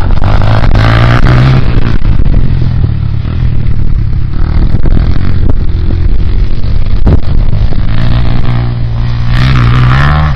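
Motocross bike engine running loud and close, with a few sharp knocks along the way; near the end the engine revs up and its pitch climbs.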